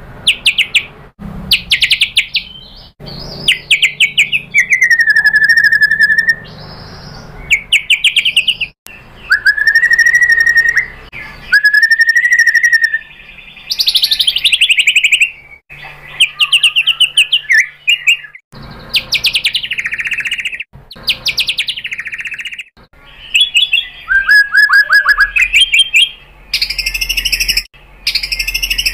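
White-rumped shama singing: fast chattering trills alternating with clear whistled phrases, in a string of separate bursts that start and stop abruptly, as in an edited song compilation.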